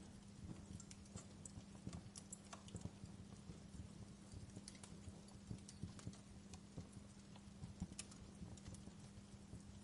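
Wood fire in a fireplace crackling, with irregular small snaps and pops over a faint steady hum.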